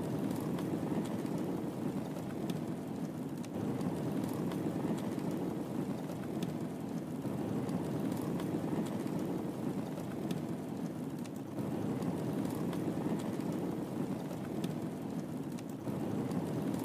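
Wood fire crackling in a fireplace: scattered sharp pops and snaps over a steady low rumbling hiss.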